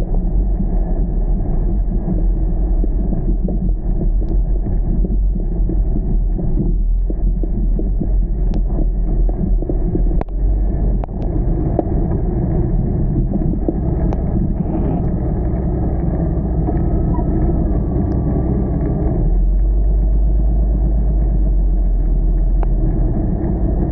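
Car driving, heard as a steady low rumble of engine and road noise with a few faint clicks.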